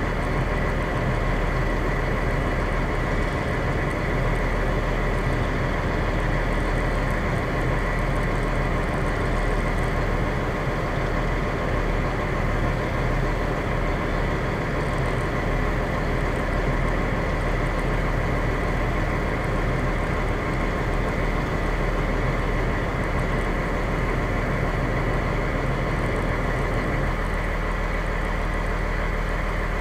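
Fire engine's diesel engine running steadily, heard from inside the cab, with a change in the low engine note about 27 seconds in.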